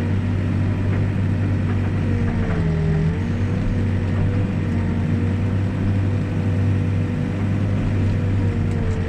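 Backhoe's diesel engine running steadily under digging work, with a thin steady whine from the hydraulics that dips briefly about three seconds in.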